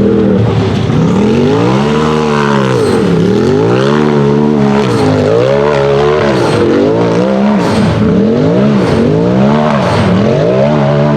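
UTV race engine revving hard and easing off again and again, its pitch climbing and dropping every second or two as the throttle is worked up a hill climb course, with some tire squeal.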